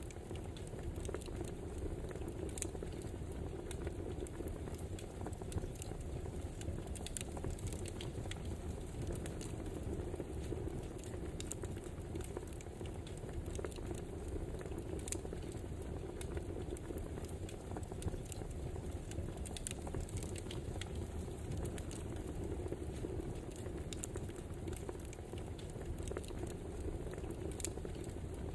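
Wood fire crackling: a steady low rush of burning logs with frequent small, irregular pops and snaps.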